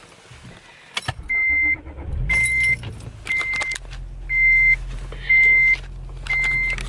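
A car's warning chime beeps six times, about once a second. About two seconds in, the engine cranks, starts and settles into a steady idle, with a click just before.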